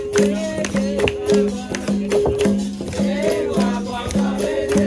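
Capoeira roda music: a berimbau played in a repeating rhythm with a shaken caxixi rattle and other hand percussion, under group singing.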